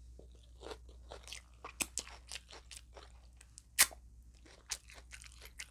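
Close-up crunching and chewing of a hard, crunchy taco shell: a run of irregular sharp crunches between quieter chewing, the loudest crunch about four seconds in.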